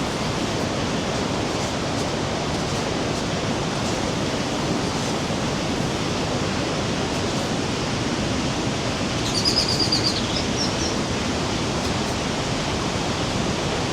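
The Rhine Falls' heavy water, a steady, dense rush of falling and churning water. About two-thirds in there is a short run of high chirps.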